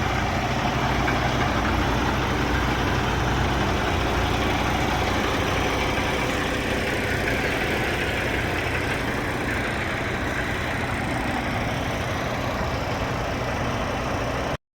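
Semi truck's diesel engine idling steadily, a low even drone that cuts off abruptly near the end.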